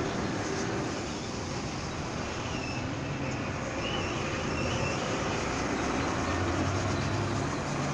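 Steady vehicle noise: a continuous low rumble of engines and traffic, with a faint brief tone about three seconds in.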